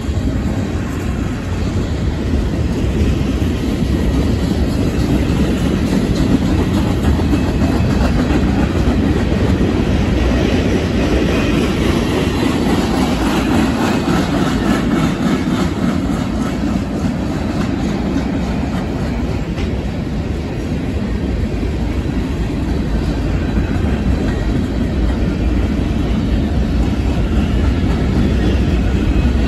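Freight train cars, mostly tank cars, rolling past at close range: steel wheels running on the rails in a steady rumble with faint rapid clicking.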